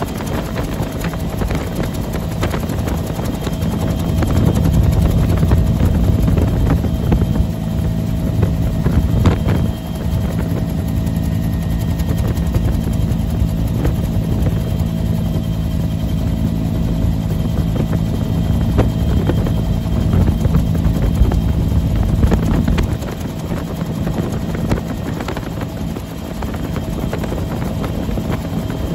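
Bell UH-1 Huey helicopter running steadily in flight: a loud low drone with a steady higher tone over it, a little quieter for the last few seconds.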